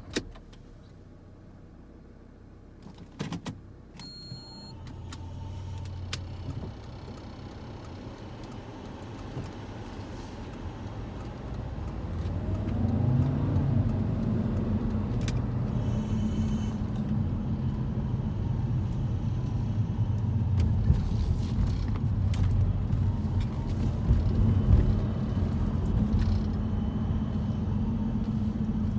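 Cabin sound of a 2009 Alfa Romeo 159 with a 2.4 JTDm five-cylinder diesel and automatic gearbox: the engine idles with a few clicks and a short high beep, then the car pulls away and drives on. About twelve seconds in the engine note climbs and the engine and road noise grow louder, then hold steady.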